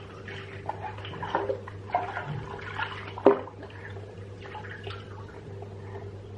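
Water splashing in a child's bathtub, with irregular small splashes and a sharper slap a little after three seconds in, over a steady low hum.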